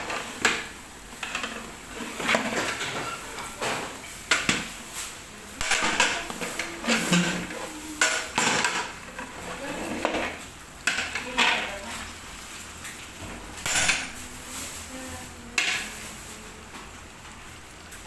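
A large ladle stirring chicken in a big cooking pot, knocking and scraping against the pot at irregular intervals.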